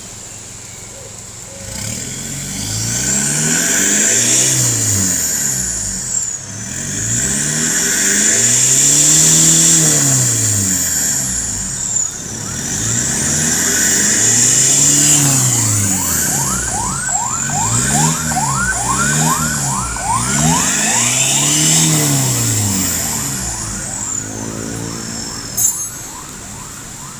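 Car engine revved through its exhaust several times, each rev rising and falling in pitch over a couple of seconds. A fast repeated chirping runs alongside the later revs.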